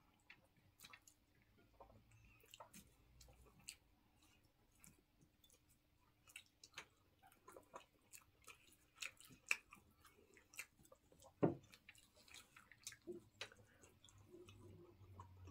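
Faint eating sounds: two people chewing and handling food with their fingers, with scattered small mouth and plate clicks and one louder knock about three quarters of the way in.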